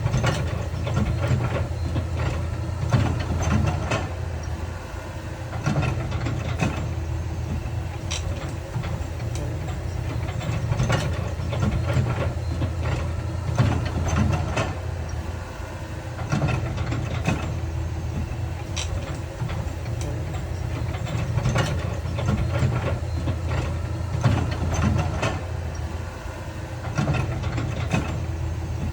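Heavy diesel construction machinery running steadily, with a low rumble and irregular metallic clanks and knocks throughout, as of tracks and rock being worked.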